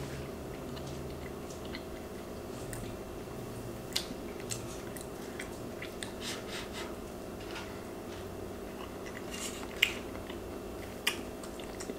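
Close-miked chewing of a soft mafe stew with potatoes and carrots over rice: wet mouth sounds and scattered small clicks over a steady low hum. A sharper click comes about ten seconds in as the wooden spoon scoops from the tray.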